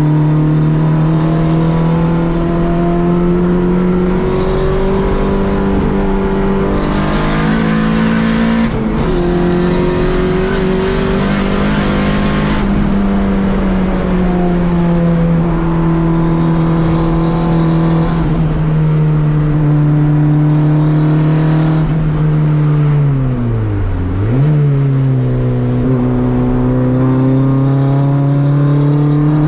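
Volkswagen race car engine running hard at track speed, heard from inside the cabin, its pitch holding and shifting with throttle and gears. A rushing hiss rises over it from about 7 to 12 seconds in, and about 24 seconds in the revs drop sharply and climb back.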